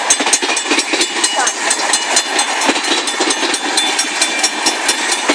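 Freight train cars rolling past, with a steady rumble and the wheels clicking several times a second over the rail joints.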